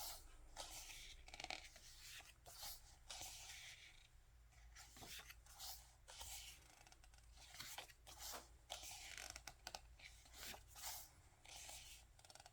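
Pages of a photo book being turned and handled: a run of faint, irregular paper swishes and rustles.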